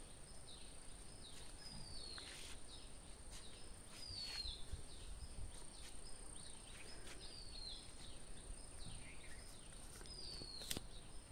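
A bird repeating a short descending whistled call about every three seconds, over a steady high-pitched tone in the background. A sharp click near the end.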